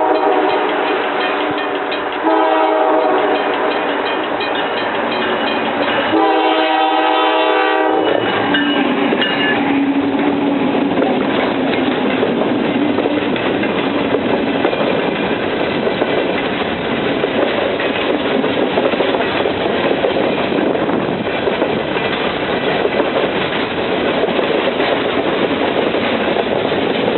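Diesel locomotive horn of an empty coal train sounding several blasts, the last the loudest, about eight seconds in all. Then the train rolls past: a low drone dropping slightly in pitch as the locomotives go by, followed by a steady rumble and clatter of empty coal cars.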